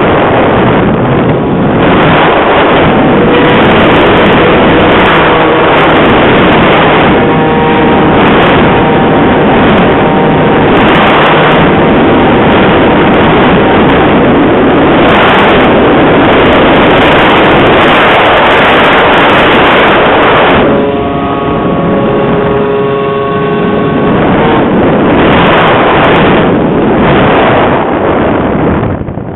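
Heavy wind buffeting the microphone: a loud rushing noise that swells and eases with the gusts.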